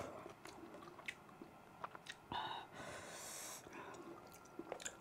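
Mouth sounds of someone eating tender beef bulalo: soft chewing with scattered small wet clicks, and a short breathy hiss a little past halfway.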